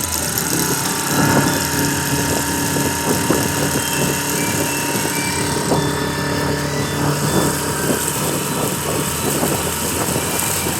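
Small boat's engine running steadily in forward gear with the throttle open, the boat under way, with irregular light knocks over it.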